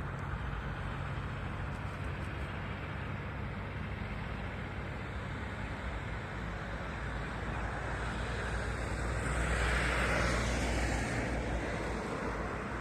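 Steady low rumble of the kind a running vehicle or traffic makes, with a louder rushing swell about ten seconds in.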